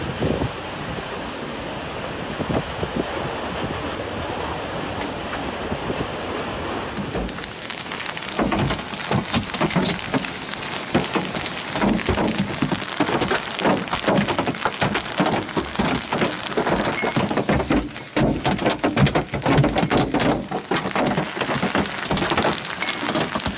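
Heavy rain in a storm: a steady rush at first, then from about seven seconds in a louder, denser downpour with many sharp hits of water striking surfaces.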